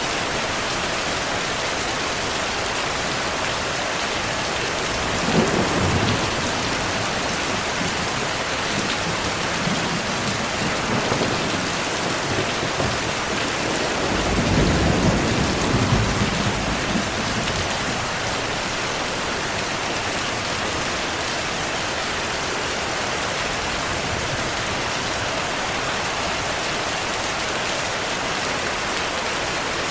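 Steady heavy rain with thunder rumbling twice: a short clap about five seconds in, then a longer low rumble from about fourteen to seventeen seconds.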